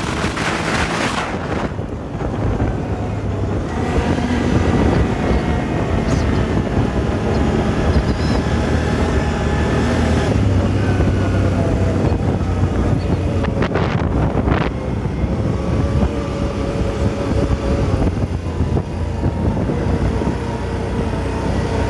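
Engine of an 800 cc off-road machine running while riding, its pitch rising and falling with the throttle every few seconds, under heavy wind noise buffeting the microphone.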